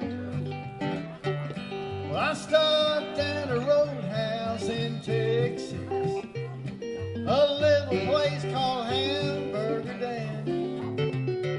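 Instrumental intro of a country song on guitar: a stepping low bass line under a lead melody with sliding, bending notes.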